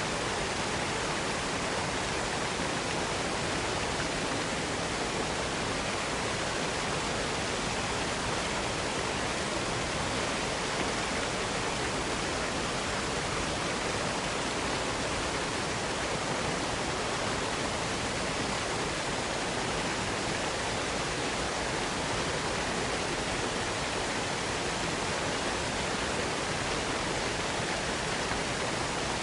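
Waterfall cascade: water falling and splashing in a steady, unbroken rush.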